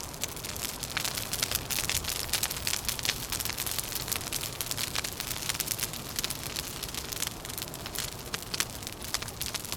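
Wood fire crackling: a dense, continuous run of small snaps and pops over a low, steady rumble.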